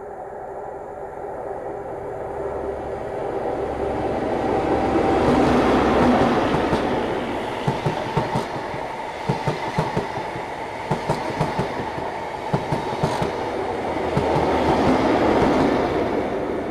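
A High Speed Train set with a Class 43 diesel power car at each end passes close by. The leading power car's engine swells and passes about six seconds in. The coaches follow, with their wheels clicking over rail joints in quick groups. The rear power car's engine swells and passes near the end and then fades away.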